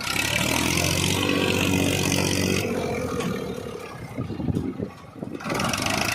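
Massey Ferguson 1035 DI tractor's three-cylinder diesel engine running; its sound thins out about halfway through and dips briefly near the end before coming back strongly.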